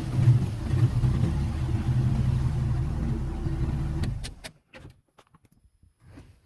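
Vehicle engine running steadily, then switched off about four seconds in, followed by a few light clicks and near silence.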